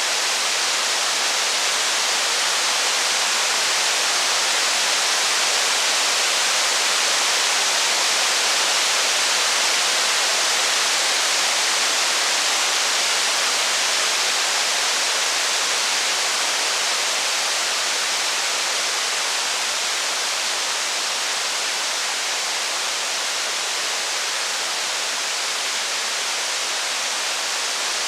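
Steady heavy rain, an even hiss without distinct drops, crackles or thunder.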